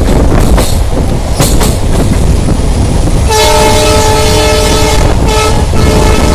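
Diesel locomotive's multi-tone horn sounding a long blast from about halfway in, with a short break near the end. Underneath runs the steady rumble of a moving passenger train, with a few sharp wheel clicks in the first half.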